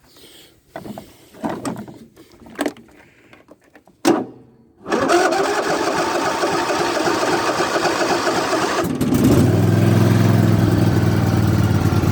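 A few knocks and clicks, then the Husqvarna riding mower's starter cranks the engine for about four seconds on a freshly charged battery until it catches and settles into a steady run.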